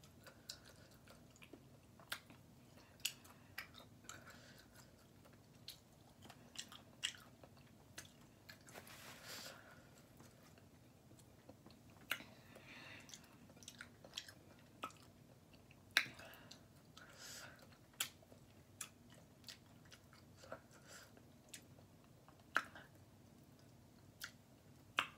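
A person chewing a taco close to the microphone, quietly: scattered wet mouth clicks and smacks, with a few longer, softer stretches of chewing noise.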